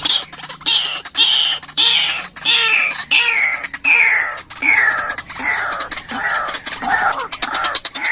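White-breasted waterhen calling: a harsh note that falls in pitch, repeated about twice a second in a steady series.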